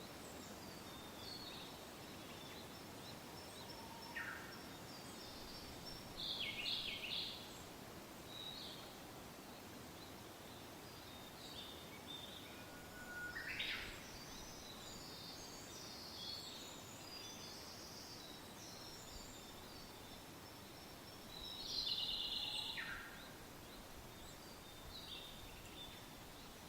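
Birds singing and calling over a soft steady wind, with brief phrases of song a few seconds apart and the loudest bursts of song about 6, 13 and 22 seconds in.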